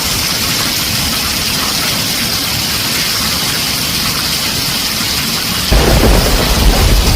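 Heavy rain drumming steadily on a tin roof; a little before the end a loud, deep rumble of thunder comes in suddenly.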